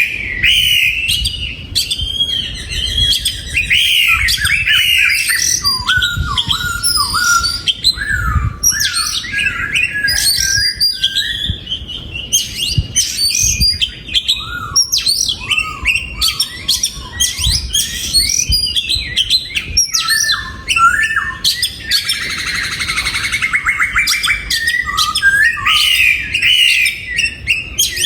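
Oriental magpie-robin singing a long, varied song of sweeping whistled phrases, with a rapid buzzy rattle about three-quarters of the way through.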